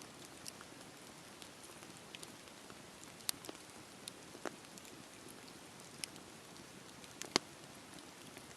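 Campfire burning: a soft steady hiss of flames under scattered sharp crackles and pops, the loudest pop about seven seconds in.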